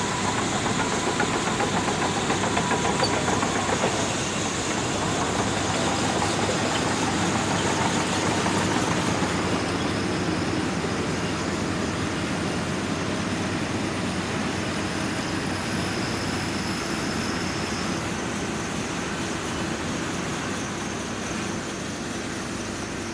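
Shantui DH17C2 bulldozer's diesel engine running steadily under working load as it pushes sand, easing off slightly near the end.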